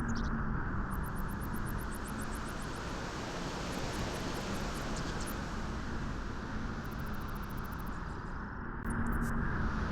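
Beach wind blowing steadily, a continuous rushing noise heavy in the low end. It eases a little in the middle and picks up again near the end, with a faint low hum at the start and again as it picks up.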